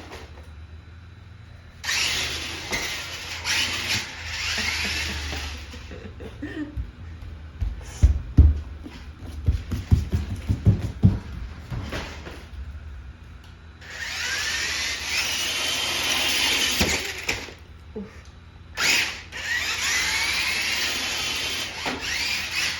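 Toy monster truck's electric motor whining in three runs of a few seconds each, the pitch sliding up and down as it speeds up and slows. Between the first two runs comes a string of sharp knocks and thumps.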